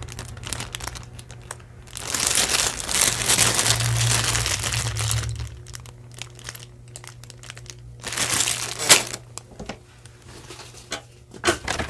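Crinkling and rustling of packaging as jewelry pieces are handled, in two longer stretches, with a sharp click about nine seconds in.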